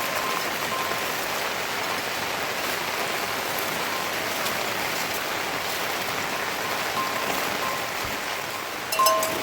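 Steady rain falling, an even hiss, with a faint high tone coming and going. Sharp clicks and tones come in near the end.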